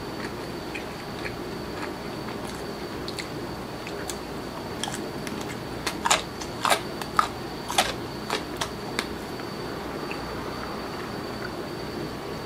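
A person chewing fried chicken with the mouth, giving wet lip smacks and mouth clicks. The smacks are sparse at first, then come as a run of sharp smacks in the middle, over a steady faint room hum.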